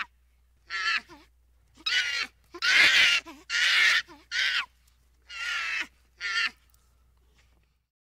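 Baboons calling: about seven harsh, screechy calls, each under a second, with short gaps between.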